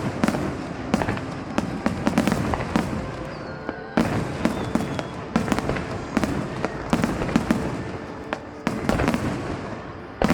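Aerial fireworks display: many shells bursting one after another, sharp bangs with echoing tails. A loud burst comes about four seconds in, and a dense cluster near the end.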